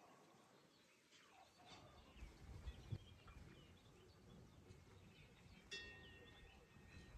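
Faint outdoor ambience with scattered bird chirps and a low rumble, and a short steady high note near the end.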